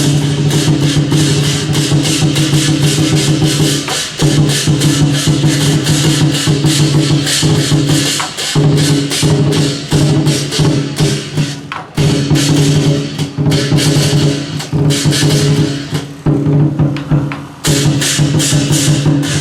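Temple procession music: drums and cymbals struck fast and evenly, about three or four strokes a second, over steady held instrument tones. It breaks off briefly a few times.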